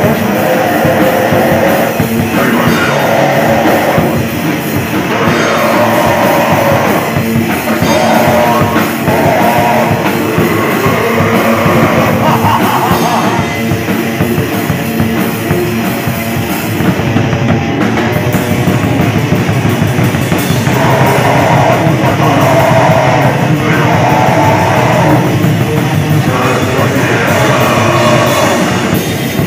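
Loud heavy rock song played by a band, with drum kit, guitars and a singer's voice in phrases.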